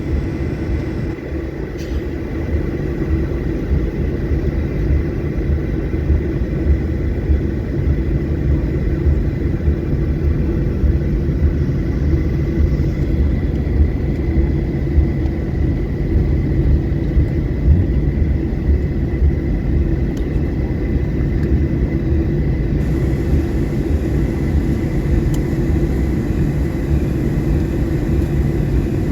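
Cabin noise of a Boeing 737-800 after landing: its CFM56 engines and running gear make a steady low rumble, with a thin constant high whine above it.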